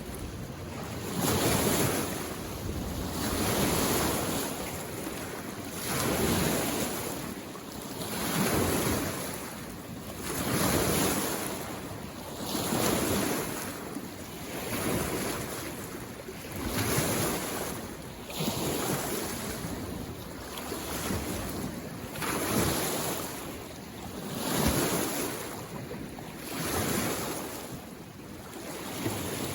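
Small waves on a mountain lake washing in against the shore, one swell of rushing water about every two seconds.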